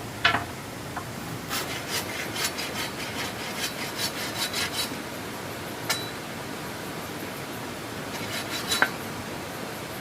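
Hand work on wood: repeated short scraping strokes, two or three a second, with a sharp knock just after the start and another near six seconds, over a steady hiss.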